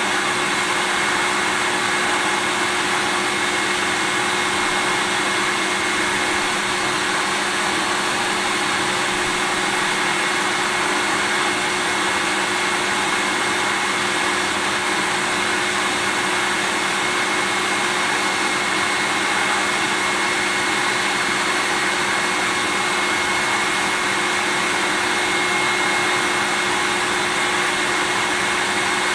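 Vacuum cleaner running steadily, a constant rushing noise with a faint steady whine that never changes.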